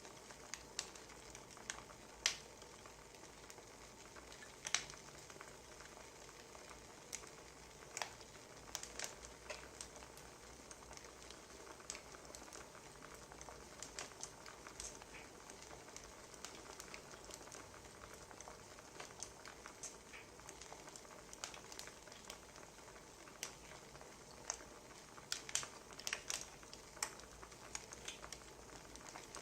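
Wood fire crackling: irregular sharp pops and snaps over a faint steady hiss, the pops coming a little thicker near the end.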